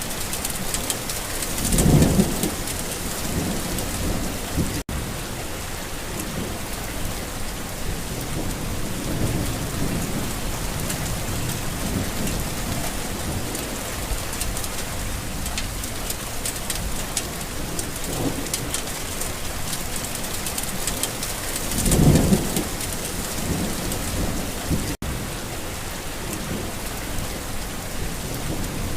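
Steady rain falling on a garden, with rolling thunder rumbling underneath; the loudest thunderclaps come about two seconds in and again about two-thirds of the way through, with softer rumbles between.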